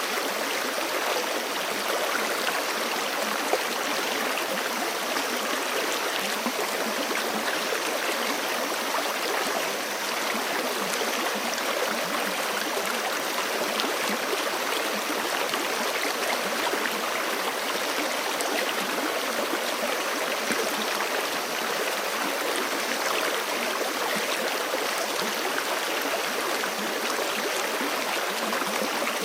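Forest creek running steadily over rocks, an even, continuous rushing and gurgling of water.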